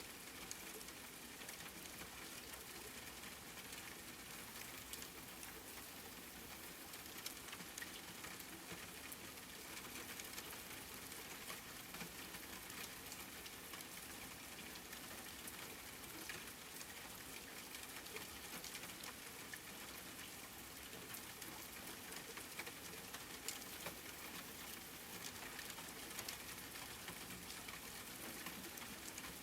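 Steady rain falling, with a continuous hiss and many small drop ticks striking a surface.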